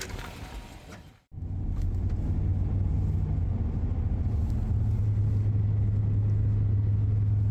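Truck engine and road noise while driving: a steady low drone that cuts in abruptly after a moment of silence about a second in.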